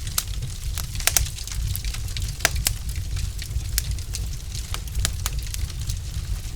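Wood logs burning in a fireplace, crackling with scattered sharp pops over a steady low rumble. A quick cluster of pops comes about a second in and another about two and a half seconds in.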